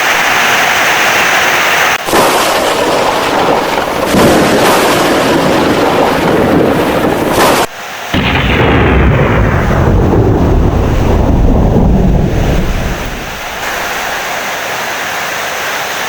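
Heavy rain with thunder rumbling. The sound changes abruptly a few times, and a strong, deep rumble of thunder swells about halfway through and fades after a few seconds.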